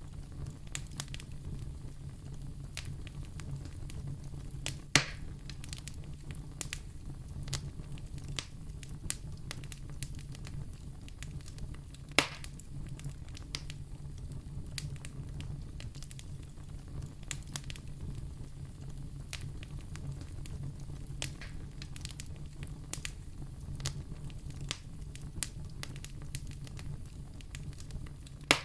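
Fire burning in a fireplace, crackling with scattered pops over a low steady rumble. Sharp snaps stand out about five seconds in, about twelve seconds in, and near the end.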